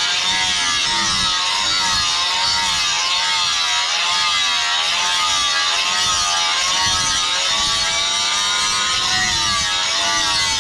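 Electric grinder grinding a steel blade blank cut from a chainsaw bar: a steady motor whine over a loud grinding hiss, its pitch wavering up and down as pressure on the steel changes.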